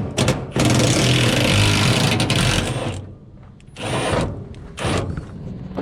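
Tool work on a broken bolt in a 1950 Chevy truck: a couple of sharp metal knocks, then about two seconds of steady mechanical whirring and rattling, then two shorter bursts near the end as the bolt comes out.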